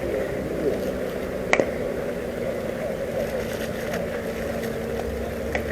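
Steady outdoor background noise with faint distant voices, and one sharp knock about a second and a half in, with a lighter tick near the end.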